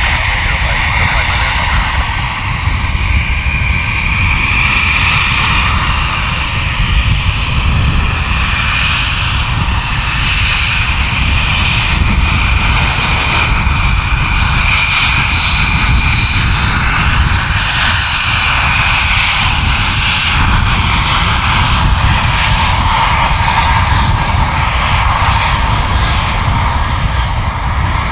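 Aircraft engines running close by: a loud, steady rumble with a high whine that rises slightly about two-thirds of the way through.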